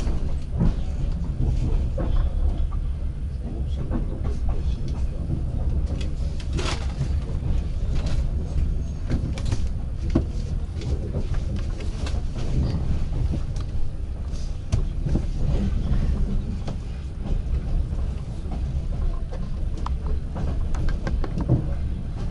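Passenger train coach in motion, heard from inside: a steady low rumble with irregular clicks and knocks from the wheels running over rail joints and switches. One knock, about a third of the way through, is louder than the rest.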